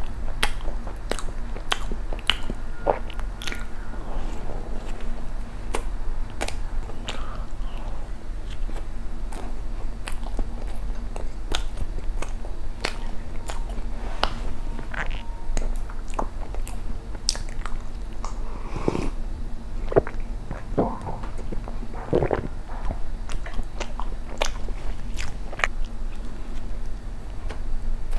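Close-miked chewing of soft cream-filled injeolmi bread, with many small mouth clicks throughout.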